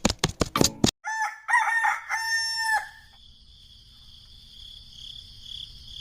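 Music cuts off, then a rooster crows once, one call of about two seconds, followed by the steady high chirring of crickets.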